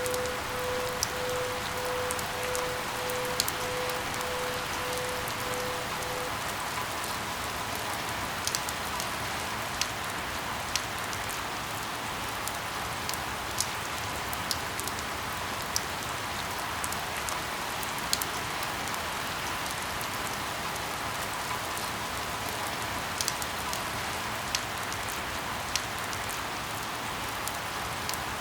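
Steady rain with scattered sharp drip ticks, about one a second. A pulsing tone, about two beeps a second, runs over it and stops about six seconds in.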